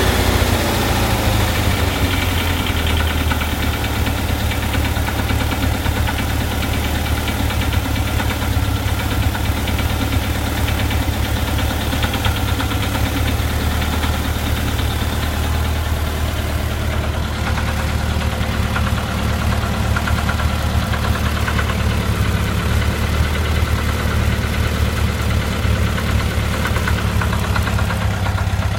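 Air-cooled VW Type 4 2.0-litre fuel-injected flat-four idling warm, with the revs dropping back to idle at the start and an irregular knocking at idle. The owner suspects a loose cam gear or a hydraulic lifter loose in its bore in the engine case.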